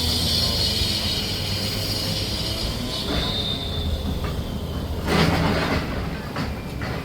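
Heavy metal machinery running with a steady low rumble and a high metallic squeal that dies away about three seconds in, then a loud scraping noise about five seconds in.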